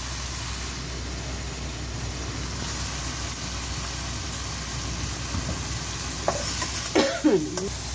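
Potatoes frying in onion-tomato masala, sizzling steadily in a nonstick wok, with a few spatula knocks and scrapes near the end.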